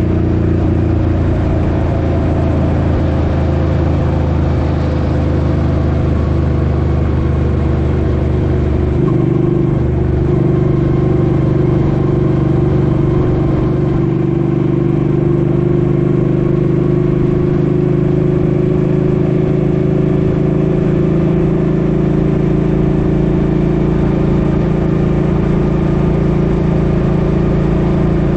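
Suzuki Boulevard M50's 805 cc V-twin engine running steadily under way, its note shifting about nine seconds in.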